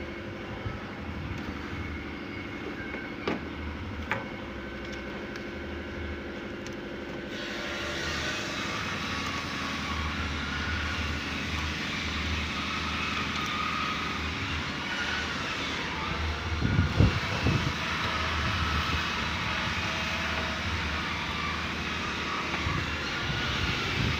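A steady engine drone that grows louder and noisier about seven seconds in, with a few sharp clicks early and some low thumps later.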